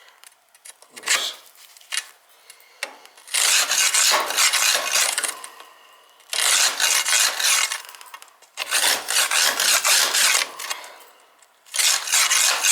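A brush scrubbing crusty soot buildup from inside an oil-fired boiler that has been found choked. A few light knocks come first, then four bursts of scraping, each lasting one to two seconds, with short pauses between them.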